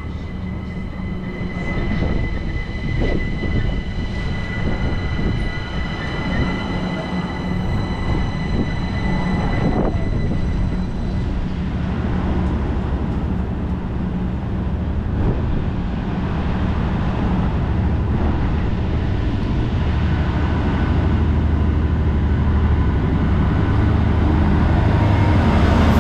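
An electric passenger multiple unit runs past with a steady high whine that fades about ten seconds in. A Freightliner Class 66 diesel-electric locomotive then approaches and draws alongside, the low drone of its two-stroke diesel engine growing louder toward the end.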